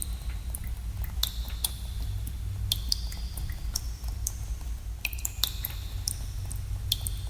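Water drops falling into pools in a cave: irregular plinks, several a second, many ringing briefly with a short tone, over a steady low rumble.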